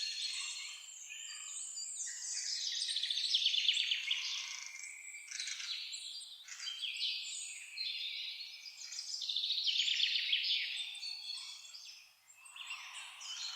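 A chorus of songbirds singing and chirping over one another. Rapid trills swell to a peak about three to four seconds in and again about ten seconds in, with a brief lull shortly before the end.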